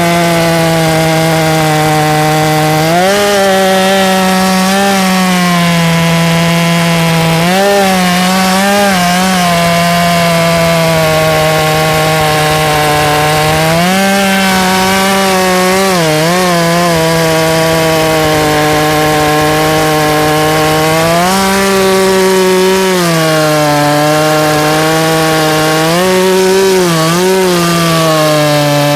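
Stihl 066 Magnum two-stroke chainsaw running at full throttle while cutting through a log. The engine pitch sags under load and picks up again as the chain eases in the cut, repeatedly.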